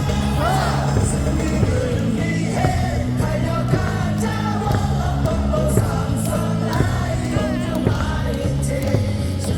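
A batter's cheer song plays over a baseball stadium's loudspeakers to a steady beat, with a large crowd of fans singing and shouting along.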